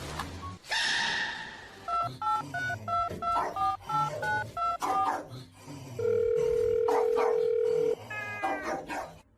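Telephone keypad tones: a quick run of about a dozen short two-tone beeps, then one long steady beep lasting about two seconds.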